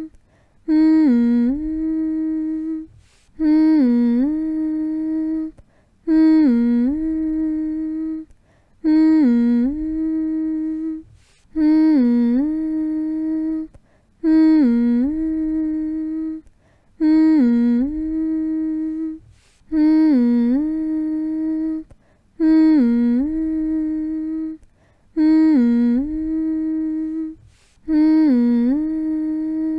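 A person humming the same short phrase over and over, about every three seconds: a held note that dips down and comes back up, with a brief pause before the next repeat. It is a steady, monotonous hum meant to soothe a baby to sleep.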